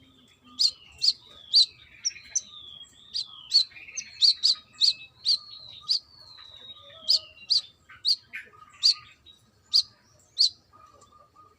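Brown-throated sunbird (kolibri kelapa) singing a rapid series of about twenty sharp, very high chips, with thin whistled notes sliding down in pitch between them. The song stops about a second before the end.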